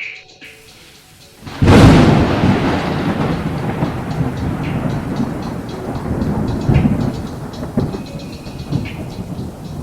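Thunderclap: after a short hush, a sudden loud crack about one and a half seconds in, then a long rumble that slowly fades, with a rain-like hiss and a few sharp crackles.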